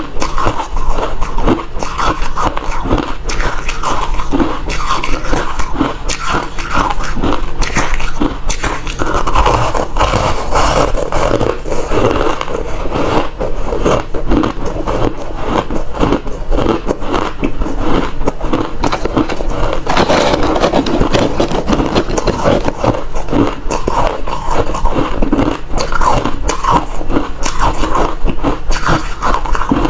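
Refrozen crushed ice being bitten and chewed, crunching steadily one bite after another without a break.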